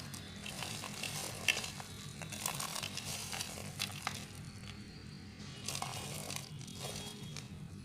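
Knife blade scraping and shaving a bar of soap in short, irregular strokes, with a few sharp clicks, over a steady low hum.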